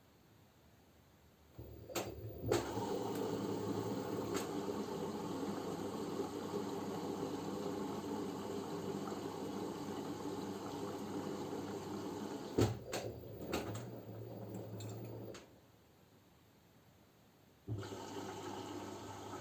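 LG F10B9LD front-loading washing machine taking in water during the early wash: a steady rush of water through the inlet valve with a low hum, starting with clicks a couple of seconds in, stopping suddenly about three-quarters through and starting again near the end.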